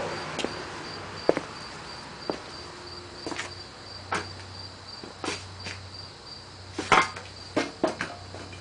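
About a dozen light clicks and knocks at irregular intervals, with a faint, steady, high-pitched pulsing tone underneath. No engine is running.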